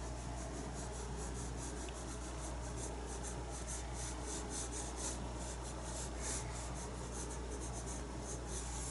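Paintbrush rubbing acrylic paint onto the painting surface in quick, irregular short strokes, a quiet scratchy brushing over a steady low hum.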